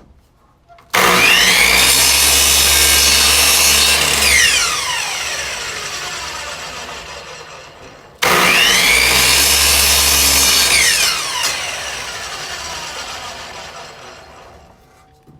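Electric miter saw switched on twice: each time the motor starts abruptly at full speed, runs for about three seconds, then is shut off and winds down with a falling whine over several seconds.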